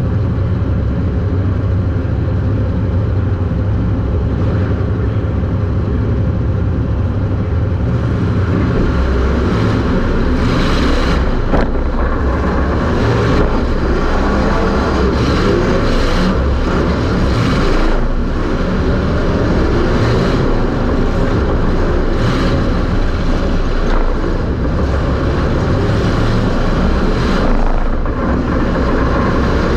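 Super Stock race car's engine running hard under racing, heard from inside the car. It is a low, steady drone at first, then from about eight seconds in the engine note surges and eases repeatedly as the throttle is worked.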